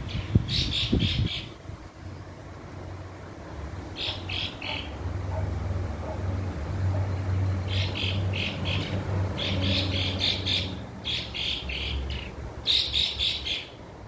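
A bird calling in about six short bursts, each a quick run of rapid high notes, with a low steady rumble underneath.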